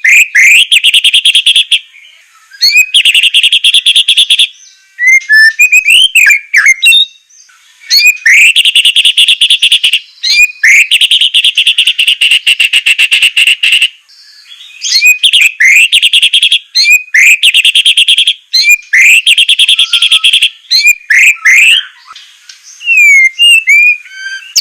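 White-rumped shama singing loudly: long, harsh, rapid rasping trills alternating with short sweeping whistled notes that rise and fall, phrase after phrase with brief pauses.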